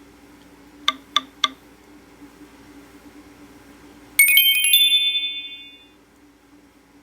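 Three quick keypad clicks on a Nokia E63 phone, then a short tone from the phone's speaker: a fast run of bright chiming notes that rings out and fades over about a second and a half.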